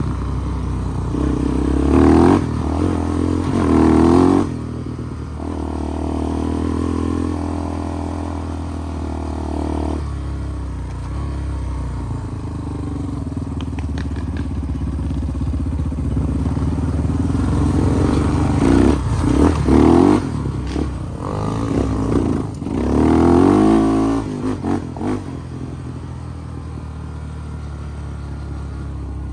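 Off-road vehicle engine riding on a trail, revving hard in short bursts about 2 and 4 seconds in and again around 19 to 24 seconds, settling to a steadier, lower run in between.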